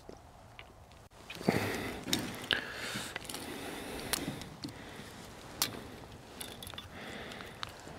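Close handling noises: a sharp knock about one and a half seconds in, then rustling with scattered clicks and taps.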